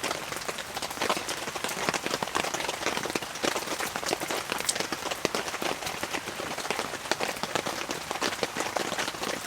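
Heavy rain falling on the fabric of a OneTigris Gastropod hot tent: a dense, steady patter of drops.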